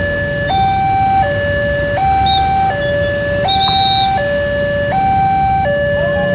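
Railway level crossing warning alarm sounding an electronic two-tone signal, alternating between a low and a high pitch about every three quarters of a second, the sign that a train is approaching. A low vehicle engine rumble runs underneath.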